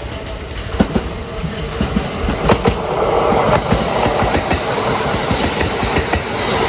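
Kintetsu electric multiple-unit train running on the rails, its wheels knocking over rail joints amid a steady rumble. The rumble and a rising hiss grow louder as the train picks up speed.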